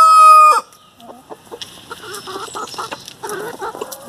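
Hamburg chickens: a rooster's loud, long crow holds its pitch, dips slightly and breaks off about half a second in. Soft clucking and short calls from the flock follow.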